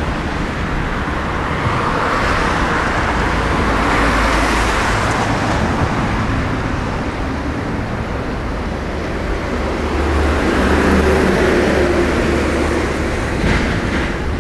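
Road traffic: motor vehicles passing, the noise swelling twice, the second time with a low engine drone.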